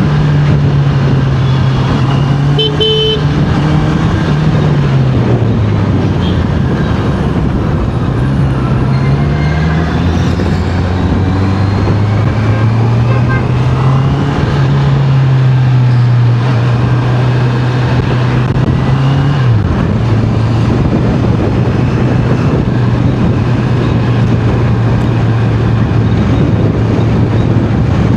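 Honda CBR650R inline-four engine running at speed, its revs rising and falling with throttle and gear changes and dropping sharply once near the end of the ride's middle, over steady wind noise. A brief horn toot about three seconds in.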